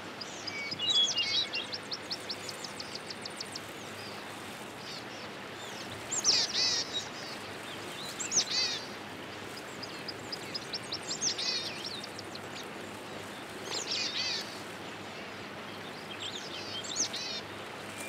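Small birds calling over a steady background hiss: a fast run of high chirps near the start, then short groups of high, falling chirps every two to three seconds.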